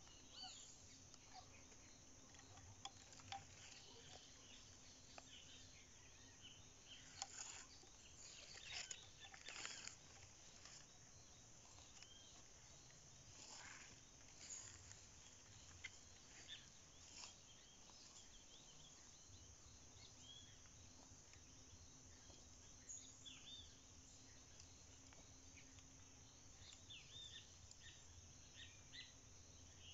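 Near silence: faint outdoor ambience with scattered small bird chirps, and a few soft rustles and clicks from about seven to ten seconds in.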